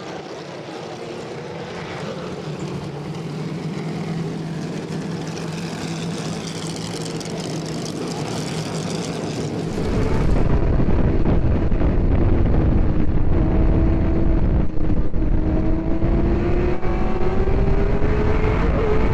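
Modified race car engines running at caution pace around the track. About ten seconds in, the sound jumps louder, with a heavy low rumble and an engine note that slowly rises in pitch.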